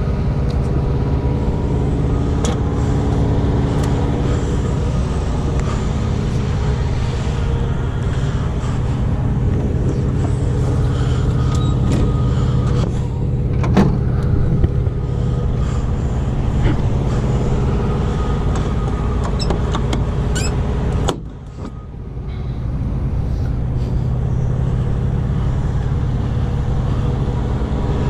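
A vehicle engine running steadily, a low hum that dips briefly about three quarters of the way through and then comes back.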